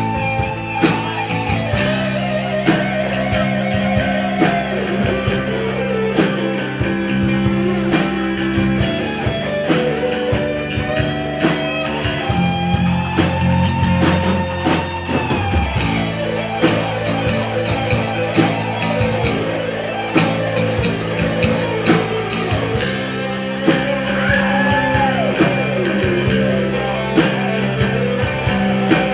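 Rock music with electric guitar and a drum kit keeping a steady beat, with a gliding lead melody line over it.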